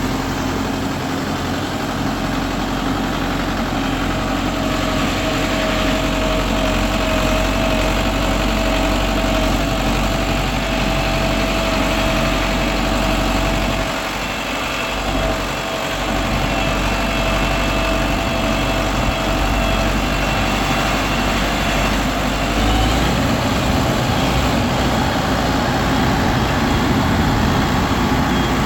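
An engine running steadily with a low hum and a thin whine; the whine rises slightly in pitch near the end.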